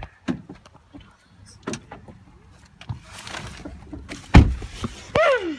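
Handling noises: scattered knocks and clicks, then one heavy thump about four seconds in, with a short falling squeak-like tone just after it.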